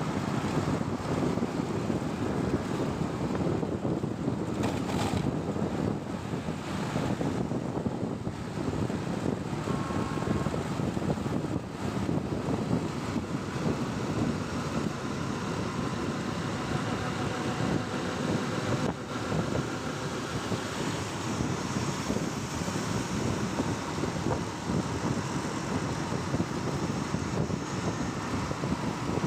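Wind noise on the microphone over the steady running of a moving motorcycle and the road traffic around it.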